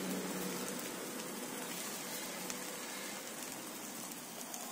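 Omelette with sliced petai (stink beans), chilies and shallots frying in oil in a nonstick pan: a soft, steady sizzle that fades slightly as the egg sets.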